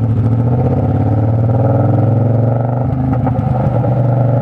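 Naked sport bike's engine running at a steady, unchanging note, with a brief clatter about three seconds in.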